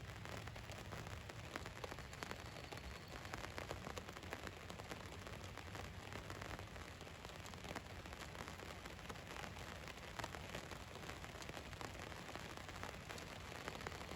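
Steady rain falling on a van, a continuous hiss dotted with the fine ticks of individual drops striking the bodywork.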